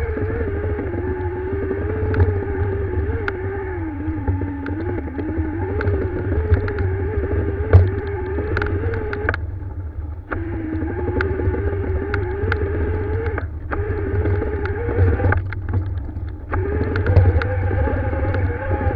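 Dirt-bike engine climbing a trail, its pitch wandering up and down with the throttle. The engine note drops away briefly about halfway through and again about three-quarters of the way in. Heavy low rumble and scattered sharp clicks run underneath.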